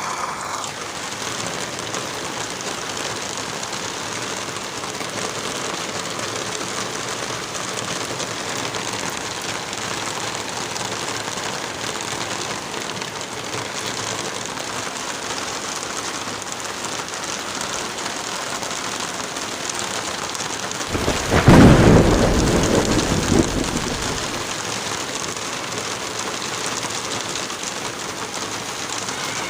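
Light rain falling with wind through trees, a steady even hiss. About two-thirds of the way through, a sudden low rumble of thunder swells and dies away over about three seconds; it is the loudest sound.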